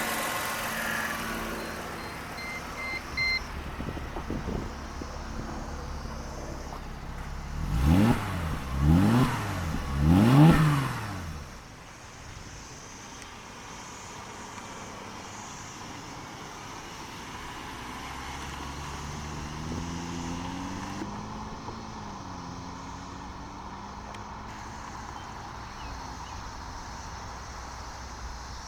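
2009 Mercedes-Benz SLK 300's 3.0 V6 idling and revved three times in quick succession, each rev rising and falling back to idle, with a slower, gentler rev about two-thirds of the way through. Three short electronic beeps sound a couple of seconds in.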